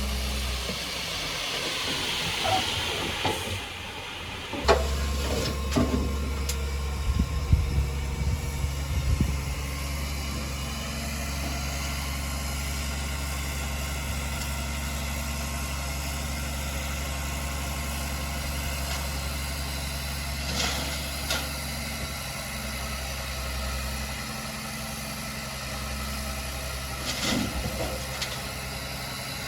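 Heavy diesel engine of an earthmoving machine running steadily at low revs, with a hiss about two to four seconds in and several sharp metallic clanks and knocks, clustered a few seconds in and again near the middle and the end.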